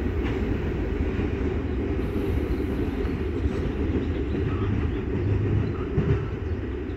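Steady rumble of a ballast train's cars rolling away on the rails, easing slightly near the end, with a couple of faint knocks about six seconds in.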